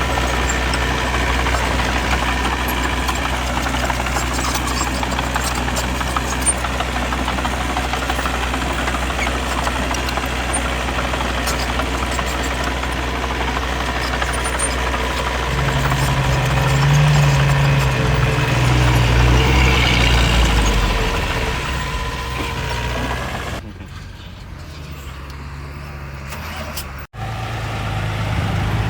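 Heavy diesel engines of earthmoving machinery at work, a steady drone. Past the middle the engine climbs in pitch and gets louder for several seconds, as under load. About three-quarters through it drops suddenly to a quieter sound, cuts out for an instant, then returns.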